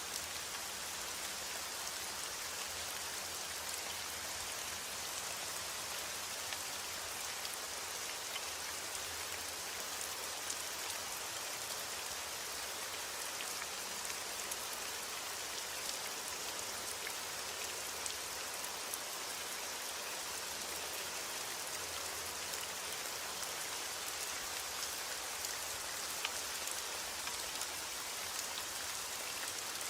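Steady heavy rain: a dense, even hiss sprinkled with many small drop ticks, falling on a surface.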